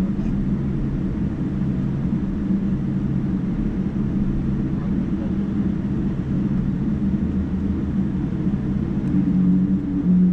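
Steady cabin drone of a Boeing 787-9 airliner, engines and airflow heard from a seat inside the cabin, with a low hum running through it.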